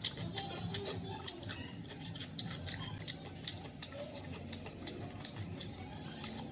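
Close-miked eating sounds: irregular wet clicks and smacks of chewing and handling homemade food, several a second.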